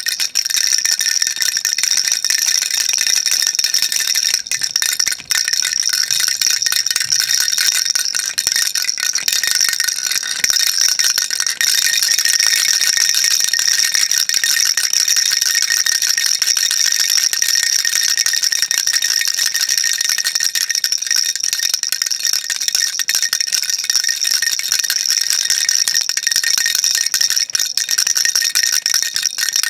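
Baby rattle shaken continuously, a dense, high-pitched rattling of small beads with no pauses.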